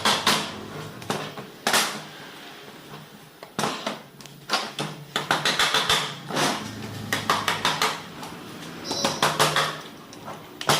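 Metal engine parts and hand tools clinking and knocking against each other while a small motorcycle engine is taken apart. There are single knocks and quick runs of clinks, the busiest stretch about halfway through.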